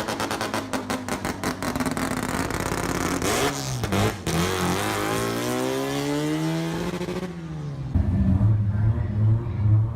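Mazda rotary engine running with a choppy, rapid-pulsing idle, then revving with the pitch climbing over a few seconds. Near the end it switches abruptly to a louder, deeper rotary idle.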